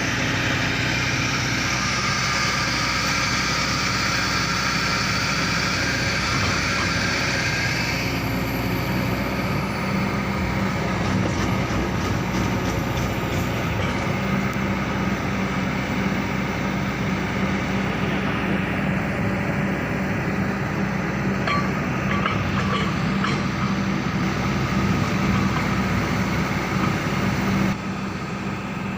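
Excavator diesel engine running steadily, with a few light ticks and clanks over it.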